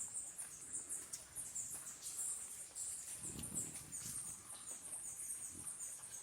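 Small birds chirping: a fast run of short, very high-pitched chirps, several a second.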